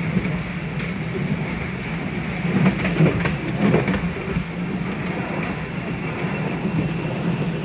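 Open cars of the Postojna cave train rumbling steadily along the narrow-gauge track. A short stretch of rattling clicks and knocks comes a few seconds in.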